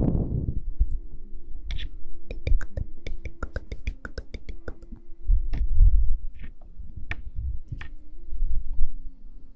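Muffled low thumps and a scattering of sharp little clicks from something handled close against an ASMR microphone, over a faint steady hum. The thumps are loudest about halfway through and again near the end.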